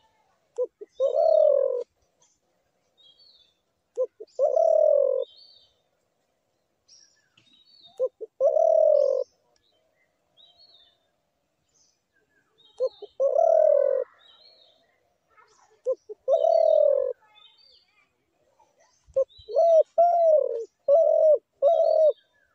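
Spotted dove cooing: a short note and then a longer coo, repeated about every four seconds. Near the end it gives a quicker run of about four short coos. Small birds chirp faintly in the background.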